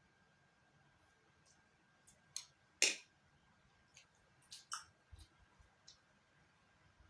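Eating sounds: a scattered handful of short, sharp clicks and taps, the loudest about three seconds in and a quick pair near the five-second mark.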